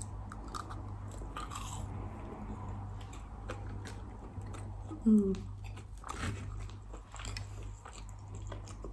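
Close-miked chewing and biting: small wet mouth clicks, with one brief louder pitched mouth sound about five seconds in.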